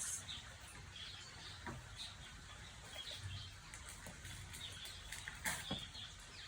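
Small birds chirping faintly and repeatedly in the background, with a few soft sharp clicks, the clearest about two-thirds of the way through.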